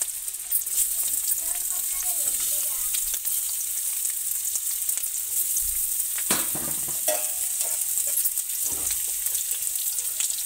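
Pressed boiled-potato tikkis sizzling in shallow oil on a flat griddle (tawa), a steady hiss of frying as the first side crisps.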